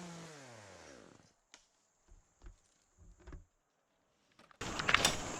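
Chainsaw engine coming off the throttle, its pitch falling as it winds down and fades within the first second or so. A few light knocks follow, then near the end a sudden loud rustling noise with sharp cracks.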